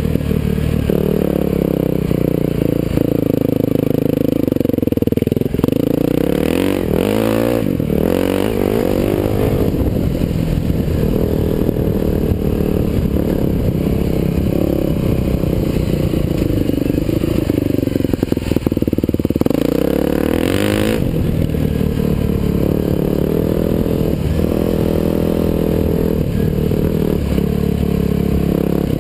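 Husqvarna TE511 dirt bike's single-cylinder four-stroke engine running under load on a dirt trail, heard from on board. Its pitch rises sharply as the rider accelerates, around seven seconds in and again around twenty seconds in.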